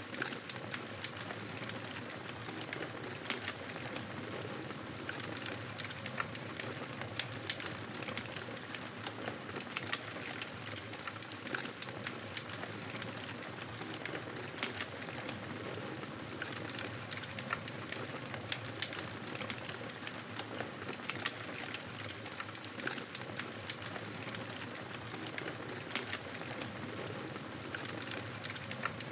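Wood fire crackling in a fireplace: a steady hiss of flames with frequent small irregular pops and snaps.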